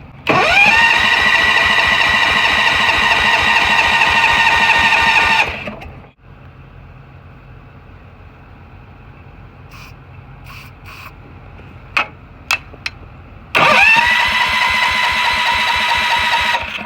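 Electric starter cranking the Allis-Chalmers 716H garden tractor's engine after a shot of starting fluid, in two long tries of about five and three seconds; each is a whine that climbs quickly and then holds steady. The engine never catches, which the owner suspects is a spark problem. A few clicks fall in the pause between the tries.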